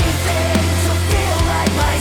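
Nu metal song playing: heavy distorted guitars over a sustained low bass, with drum kit strokes.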